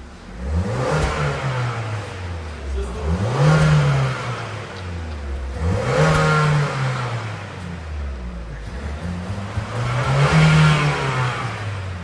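Truck engine revved repeatedly: about four revs, each climbing in pitch and dropping back toward idle.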